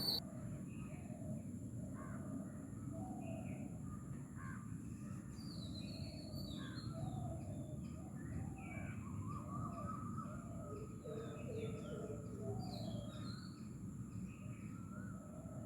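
Birds calling: many short calls one after another, over a low background rumble and a faint steady high-pitched whine.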